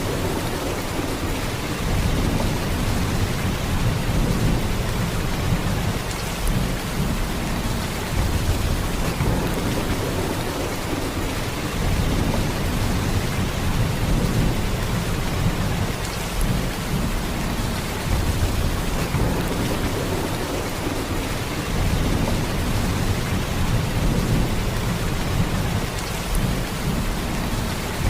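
Heavy rain falling in a steady downpour: a dense, even hiss of drops with a deep rumble underneath that swells gently every couple of seconds.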